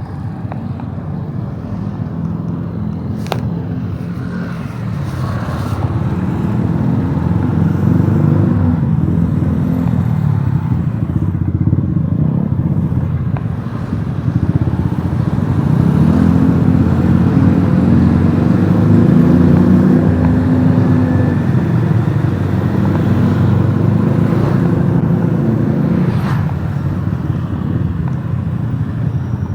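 Motorcycle engine running while riding, its note rising and falling with the throttle, over steady road and wind noise.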